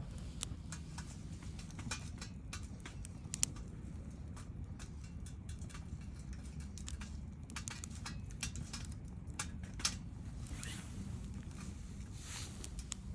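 Wood campfire crackling, with irregular snaps and pops over a steady low rumble; two sharper pops stand out, about three and a half seconds and ten seconds in.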